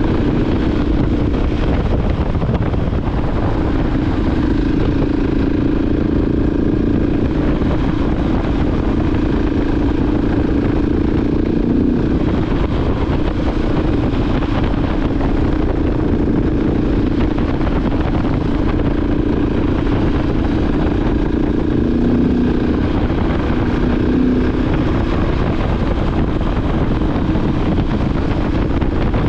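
KTM 690 Enduro R's single-cylinder engine running steadily at cruising speed, with wind rushing over it.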